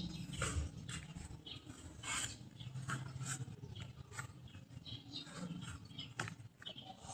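Irregular light clicks, taps and short scrapes of small hard objects being handled, over a low background hum.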